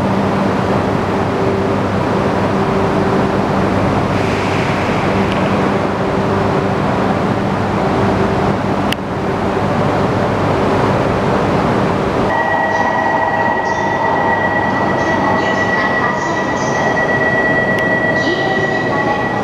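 Shinkansen train at an underground station platform: a loud, steady rumble and electrical hum. About twelve seconds in, the sound changes abruptly to a steady high-pitched whine with lower steady tones.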